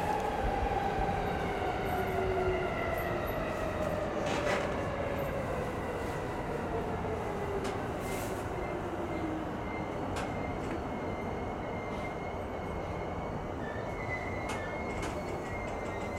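E233 series electric train heard from the driving cab as it pulls away along the track. A motor whine falls in pitch over the first nine seconds or so, and a few sharp clicks from the wheels and rails come through. A thin high squeal sets in about ten seconds in as the train runs into a curve.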